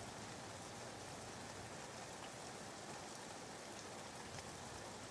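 Soft, steady rain ambience, a recorded bed of rain added as background white noise.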